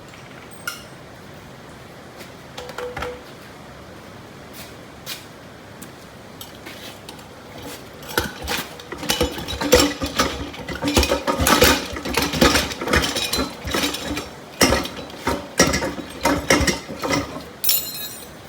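Irregular metal clanks and rattling from hands-on work on a steel lawn plugger frame, sparse at first and much busier from about eight seconds in.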